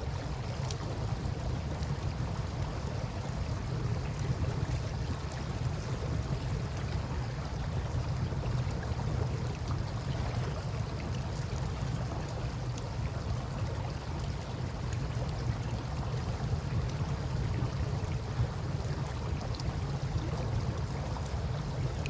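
Campfire crackling with faint scattered ticks and pops over the steady rush of flowing river water, which carries a low rumble.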